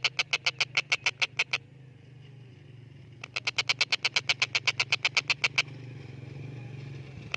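Stork-billed kingfisher giving a fast, harsh rattling chatter of about nine notes a second, in two series separated by a pause of under two seconds.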